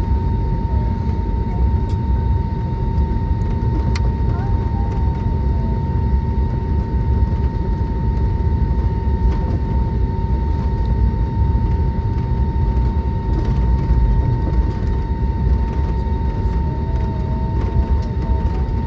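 Steady cabin noise inside an Airbus A320neo on the ground after landing: a dense low rumble with a constant high whine held through it.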